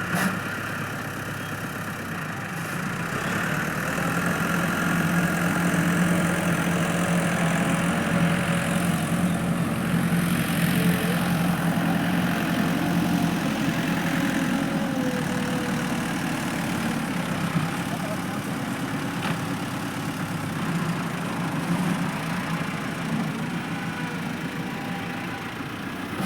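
Tractor engine running steadily at idle, somewhat louder through the middle.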